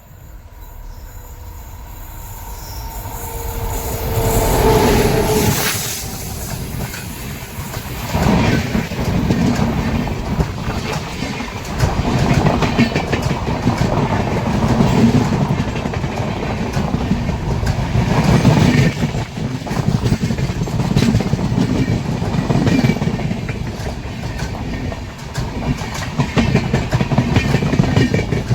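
Express train behind a WAP-7 electric locomotive running past, coming in louder over the first few seconds with a short falling tone as the locomotive goes by. Then a long run of coaches rumbling past with steady, repeating clickety-clack from the wheels over the rail joints.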